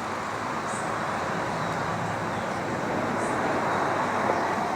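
A passing road vehicle: a steady rush of traffic noise that slowly swells, is loudest about four seconds in, then begins to fade.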